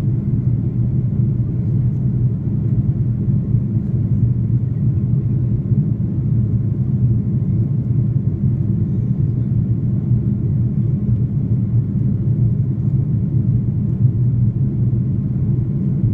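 Steady low rumble of an Airbus A330-300's engines and airflow heard inside the passenger cabin.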